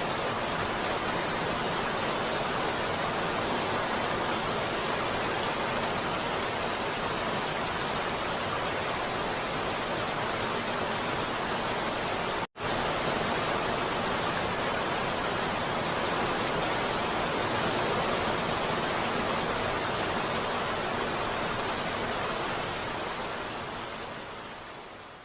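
Steady heavy rain, an even hiss. It cuts out for an instant about halfway through, then fades away over the last few seconds.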